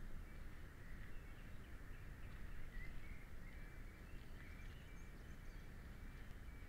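Small birds chirping over a steady low rumble of wind and tyre noise from a mountain bike rolling along a paved path.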